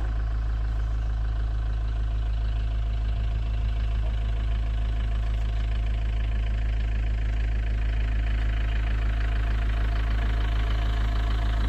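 Camper van's engine running steadily with a low, even rumble.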